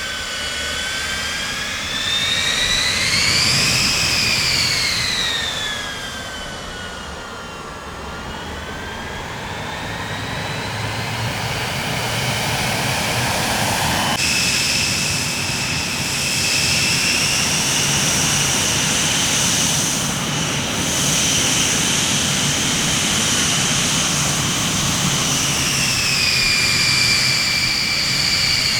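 Jet aircraft engines running, a steady rush with a high whine over it. The whine swells up and falls back in pitch in the first few seconds, then changes abruptly about halfway through to a higher, steadier whine.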